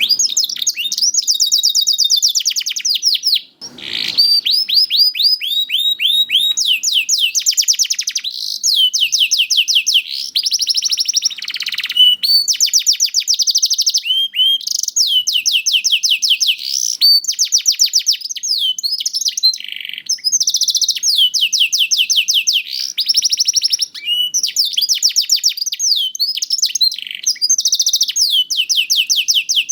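Domestic canary singing a long, nearly unbroken song of fast trills, each phrase a rapid run of repeated high notes, switching to a new phrase every second or two.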